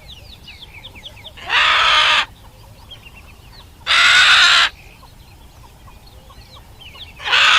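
Bird calls: three loud, harsh calls about two and a half seconds apart, with faint short chirps of small birds between them.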